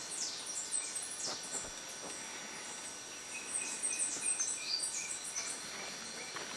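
Forest birds calling with many short, high chirps over a steady high-pitched insect drone. From about three to five seconds in, one bird gives a run of evenly spaced notes.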